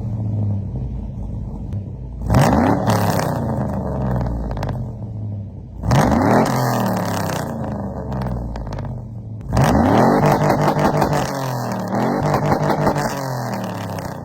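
Cammed GM 6.0-litre V8 in a Chevrolet Silverado, breathing through stock exhaust manifolds, a catless Y-pipe and a 2.5-inch Speedy Sport muffler. It is revved three times, at about 2, 6 and 9.5 seconds, with a smaller rev near the end, each rev rising sharply and then falling back to a lower running speed.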